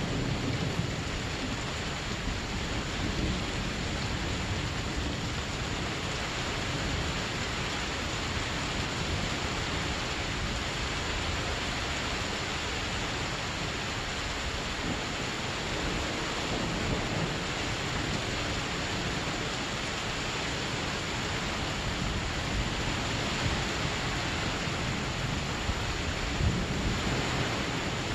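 Steady heavy rain of a thunderstorm, an even wash of noise with no break.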